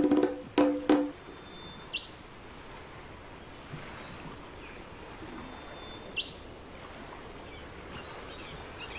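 A bird calling twice, about four seconds apart: each call is a short steady whistle that sweeps sharply upward at the end, over a steady outdoor background hiss. The first second holds the end of a loud held musical tone with a few sharp knocks.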